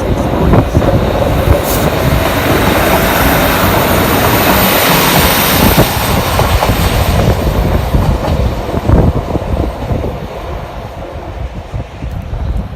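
A train running past close by, loud, with the noise strongest around the middle and fading toward the end.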